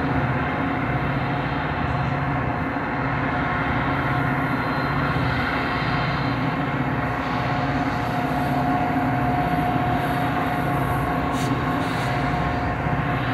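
Metra diesel locomotive and commuter train running slowly over a bridge: a steady low engine drone with a held whine above it.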